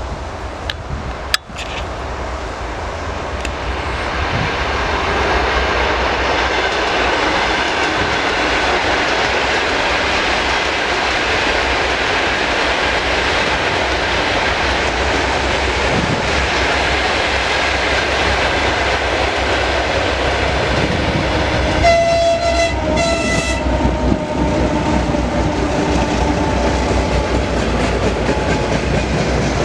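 Soviet 2M62U twin-section diesel locomotive with its two-stroke V12 diesels, hauling a freight train past: the rumble of engines and rolling wagons with clickety-clack grows over the first few seconds, then holds steady. About 22 seconds in the horn sounds in a few short blasts. A sharp click comes just after the start.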